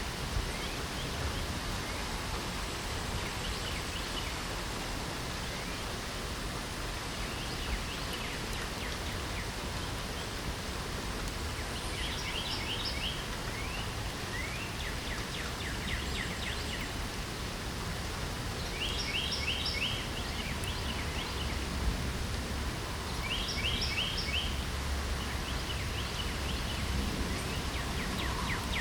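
Light spring rain falling steadily, with a songbird singing short trilled phrases now and then, four times in all.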